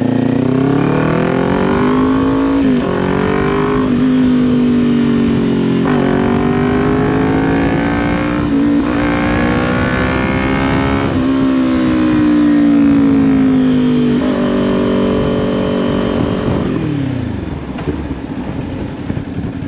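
Kawasaki Ninja 400 parallel-twin engine through a Leo Vince LV10 exhaust, revving up through the gears with several upshifts. It then eases off, holds a steady speed briefly, and drops to idle near the end.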